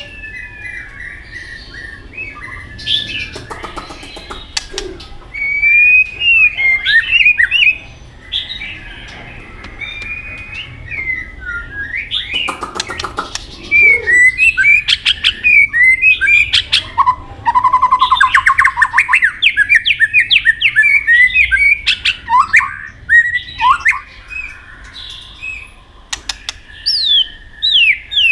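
White-rumped shama singing a long, varied song of whistled phrases, with a fast run of notes a little past the middle and a quick series of repeated falling notes near the end. Short bursts of rustling noise cut in twice, early on and near the middle.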